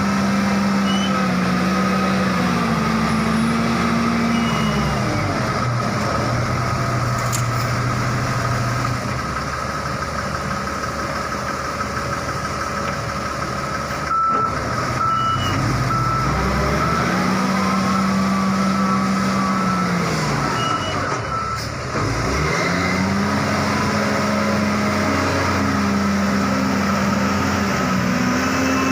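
Lonking wheel loader's diesel engine running under load, revving up and holding high as the bucket works, then dropping back, twice over. A reversing alarm beeps through much of it.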